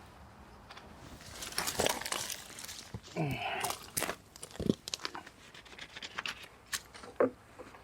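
Scattered rustling and crinkling with light knocks and a few brief squeaky sounds, the noises of someone moving about and handling things.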